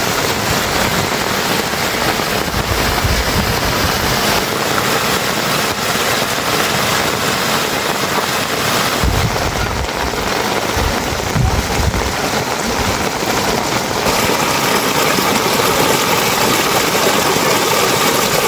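Steady rain falling, a dense even hiss, with a few brief low rumbles about 3, 9 and 11 seconds in.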